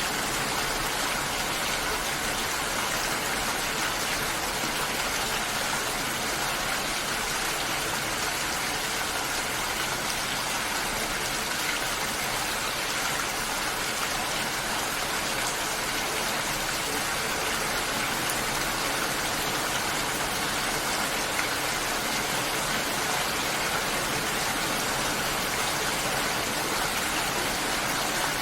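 Steady, even hiss of water, with no separate drops, splashes or changes standing out.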